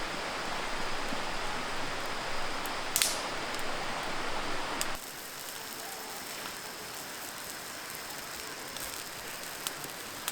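Wood fire burning: a steady hiss with a sharp pop about three seconds in. About five seconds in the sound drops suddenly to a quieter hiss with a few small crackles.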